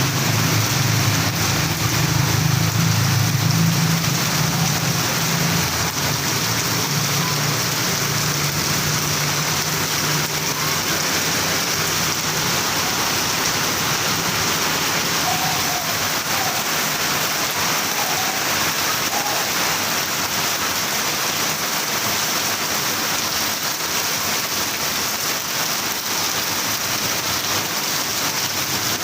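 Heavy rain falling steadily, a continuous hiss of drops on surfaces. A low steady hum sounds under it for the first several seconds and then fades away.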